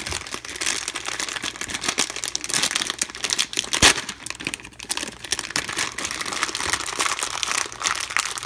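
Plastic blind-bag packet crinkling continuously as it is handled and opened, with one louder sharp crackle about four seconds in.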